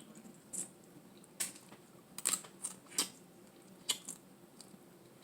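Dungeness crab shell being broken apart and picked for its meat: several sharp clicks and small cracks at irregular intervals.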